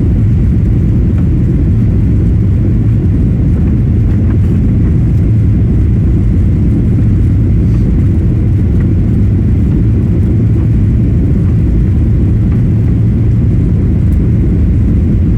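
Steady low rumble of an airliner cabin in flight: jet engine and airflow noise heard from inside the passenger cabin while climbing out after takeoff.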